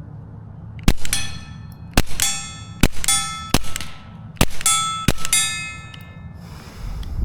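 Suppressed Taurus TX22 .22 LR pistol firing CCI subsonic rounds, about six quick shots, most followed a moment later by the clang of a steel target plate ringing out.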